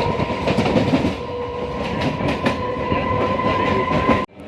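Moving passenger train: a steady running rumble with a held high whine and scattered clacks of the wheels. The sound cuts off abruptly near the end.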